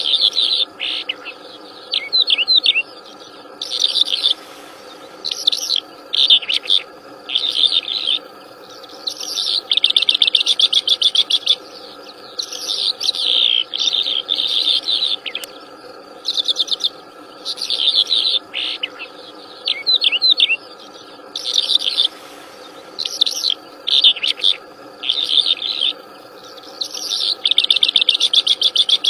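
A wild songbird singing loudly in repeated high, trilled phrases, each half a second to two seconds long with short pauses between. A faint steady drone runs underneath.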